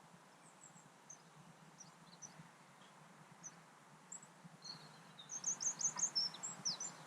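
Small birds chirping outdoors: scattered short high chirps, then about five seconds in a quick run of loud, high, falling notes lasting about a second and a half. A faint low steady background noise sits underneath.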